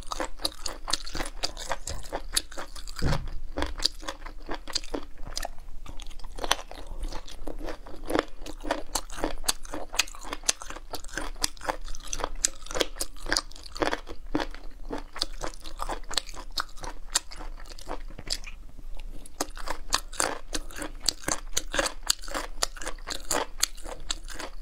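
Close-miked chewing of chicken feet: a dense stream of small crunching clicks as skin and cartilage are bitten and chewed, thinning briefly about three quarters of the way through.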